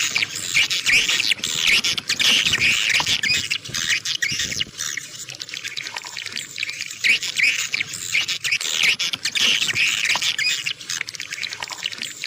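Swiftlets twittering in a swiftlet lure-call recording: rapid, high chirps repeated in dense runs, thinning out about four seconds in and building up again about seven seconds in.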